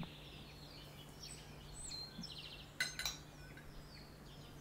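Faint birdsong, short chirps and trills, over a low steady hum, with two light clinks close together about three seconds in.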